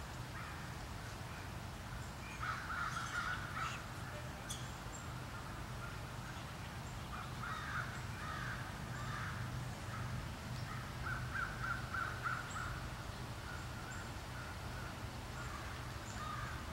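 Birds calling in woodland in several short bouts: around three seconds in, again about eight seconds in, and a run of quick calls near twelve seconds. A steady low hum underlies it.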